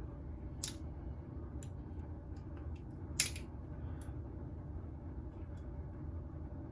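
A few small plastic clicks and ticks as a black plastic ring is worked off an aftershave splash bottle, the sharpest about three seconds in, over a steady low room hum.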